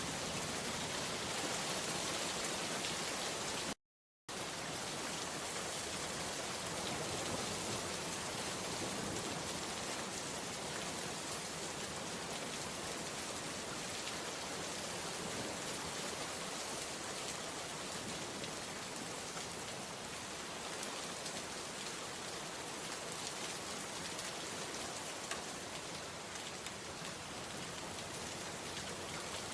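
Steady rain falling, an even hiss with scattered faint drop ticks. The sound cuts out completely for about half a second around four seconds in, then resumes unchanged.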